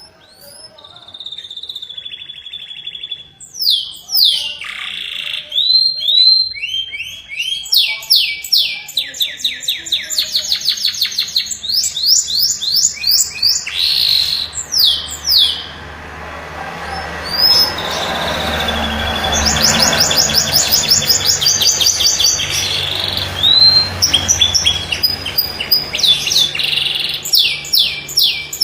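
Domestic canary singing a long, varied song of rapid trills and rolls mixed with quick rising and falling whistled notes, with a long unbroken roll through the middle. A faint low hum sits underneath from about ten seconds in.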